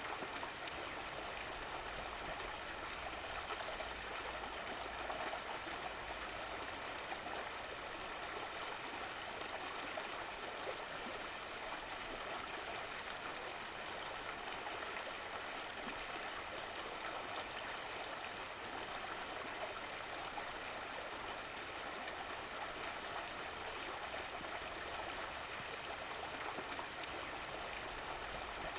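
Running water: a stream flowing and trickling steadily, with no change in level.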